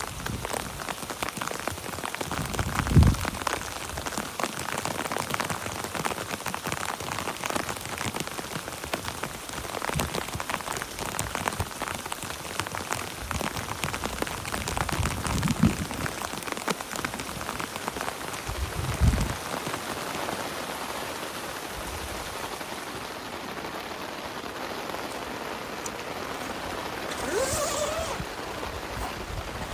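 Steady heavy rain: a dense patter of drops. Dull low thumps come about three seconds in and twice more past the middle, and the patter eases a little in the last third.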